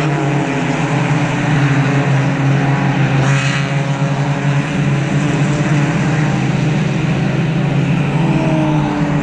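Several race cars on track with their engines at high revs, passing in a continuous stream. A louder pass swells about three seconds in, and one engine note falls in pitch near the end.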